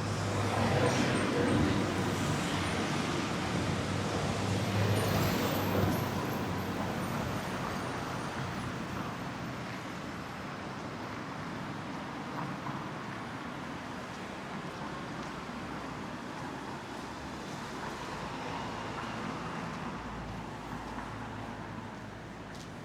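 Road traffic: cars passing with a rushing tyre and engine noise, the two loudest passes about a second in and about five seconds in, then a quieter steady traffic hum.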